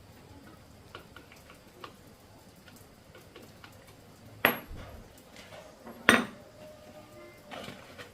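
Metal tools or parts clinking: a few light clicks, then two loud metallic clanks about a second and a half apart, the second ringing briefly, and a softer knock near the end.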